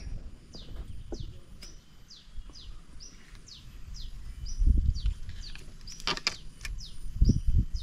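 A bird calling over and over, a short high falling note about twice a second. Low rumbling bumps come in about five seconds in and again near the end, with a sharp click a little after six seconds.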